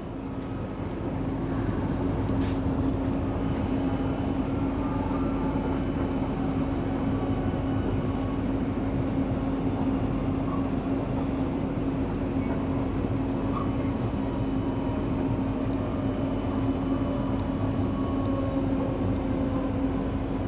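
Inside a South Western Railway Class 458 electric multiple unit running along the line: a steady rumble of wheels on rail with a constant hum under it, swelling slightly in the first second or two and then holding even.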